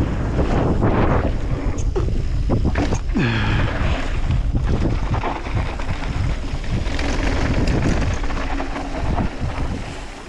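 Wind buffeting a GoPro microphone on a mountain bike riding fast down a dirt jump line, with tyres and frame rattling over the ground. There is a short falling tone about three seconds in, and the noise dies down near the end as the bike slows.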